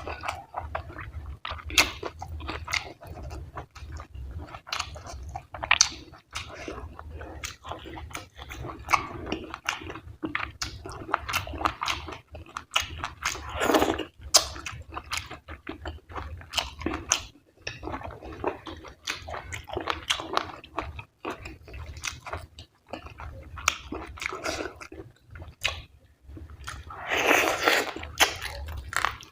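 Close-miked chewing and biting of fatty mutton curry and rice: many short, irregular mouth clicks and smacks, with a louder stretch near the end.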